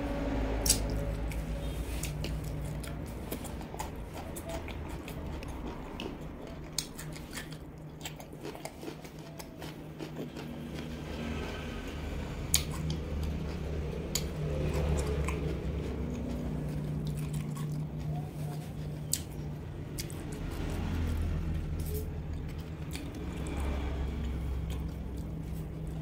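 Close-miked chewing and lip-smacking of a person eating roast duck, with many scattered sharp mouth clicks over a low steady hum.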